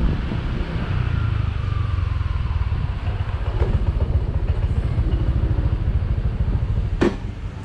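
Motorbike riding with wind buffeting the microphone, the engine note falling as the bike slows in the first few seconds. A sharp click near the end, after which the sound drops to a lower level.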